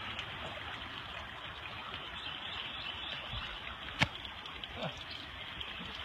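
Steady rush of flowing floodwater, with one sharp knock about four seconds in.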